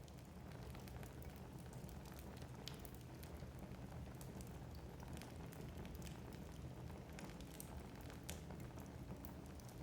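Wood fire burning in a fireplace: a soft low rumble with frequent sharp crackles and pops scattered throughout.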